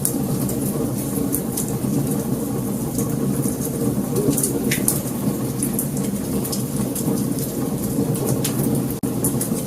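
Wood fire burning: frequent sharp crackles and pops over a steady low rumble of flames, with a momentary drop-out near the end.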